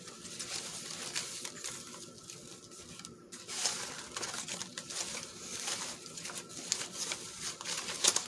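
Scrap paper sheets rustling and crinkling as they are leafed through by hand, many small crackles and taps, with a brief lull about three seconds in and a sharp tick near the end.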